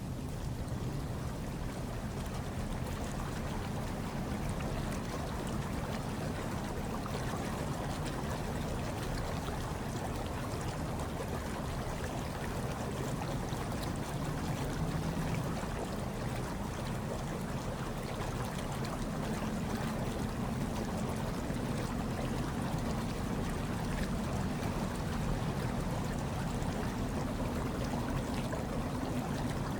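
Hot tub water churning steadily, a continuous low rush of bubbling water with faint trickling over it.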